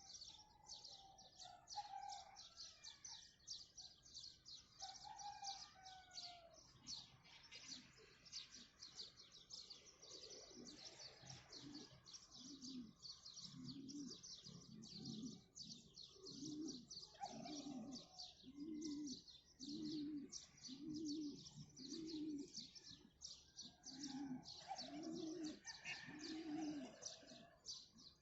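Many small birds chirping without a break, with some mid-pitched calls now and then. From about ten seconds in, a dove coos in a regular series of low notes, about one a second.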